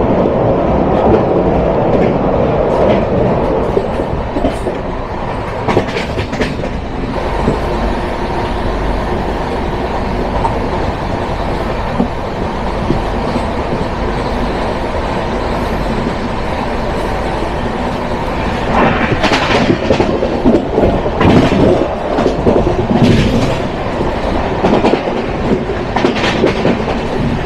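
Humsafar Express passenger coach running at speed: a steady rumble with the clickety-clack of wheels over rail joints, the clatter growing louder and busier in the last third.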